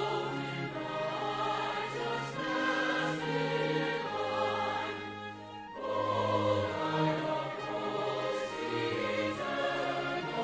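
Choir singing a traditional hymn in sustained, held notes, with a short break between phrases about halfway through.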